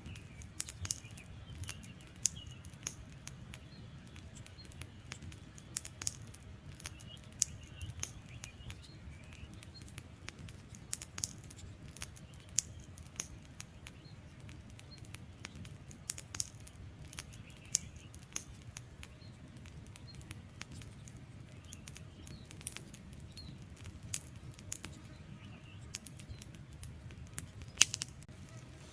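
Wood fire burning, crackling with irregular sharp pops and snaps over a steady low rumble of the flames.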